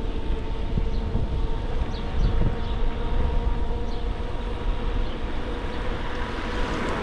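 E-bike motor running on pedal assist, a steady whine, with wind buffeting the microphone as the bike rides along.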